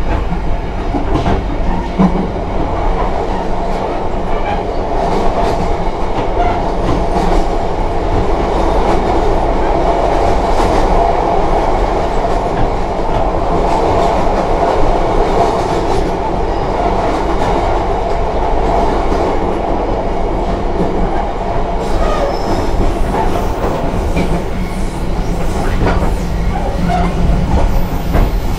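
Passenger train running on the rails: a steady rumble of wheels with the clickety-clack of rail joints, swelling through the middle and easing after about twenty seconds.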